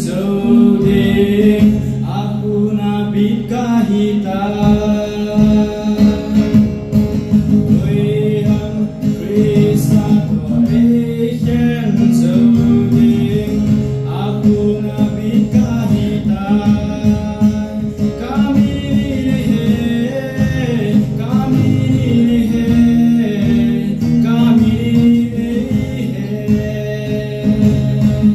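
A song sung by a voice with guitar accompaniment, the low accompanying notes changing every couple of seconds.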